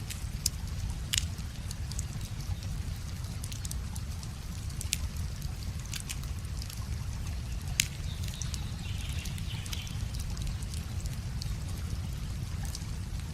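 Wood fire crackling, with scattered sharp pops over a steady low rush of flowing river water. The loudest pop comes a little past the middle.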